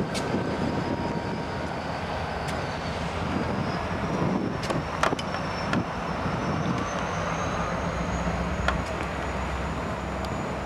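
Freight train rolling through a rail yard: a steady rumble with scattered sharp clicks of wheels over rail joints and a faint, thin high wheel squeal drifting slowly upward.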